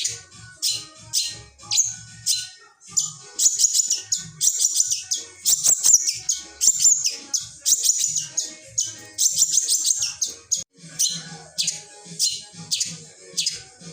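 Long-tailed shrike singing: short, scratchy, high notes repeated a few times a second, crowding into a faster, denser run through the middle, with phrases mimicked from other birds worked in.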